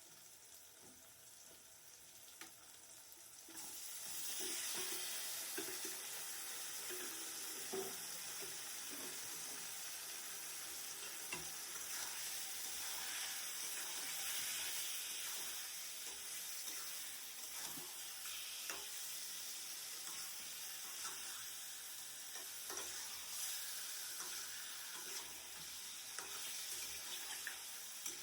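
Food sizzling in hot oil in a pan. The sizzle starts suddenly about four seconds in, as something goes into the pan, and then holds steady, with the clicks and scrapes of a spoon stirring.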